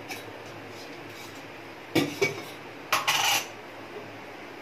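Kitchen utensils and dishes being handled: two sharp clinks about two seconds in, then a short clattering scrape about a second later.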